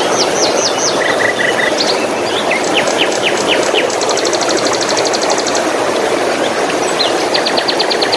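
Steady rush of flowing water with several small songbirds singing over it: a few quick downward-swept notes at the start, short repeated chirps, then a rapid trill of about a dozen notes a second in the middle and another run of notes near the end.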